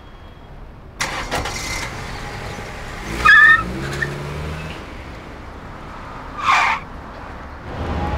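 Road traffic: cars driving by, with a short loud honk about three seconds in and a car rushing past near the end.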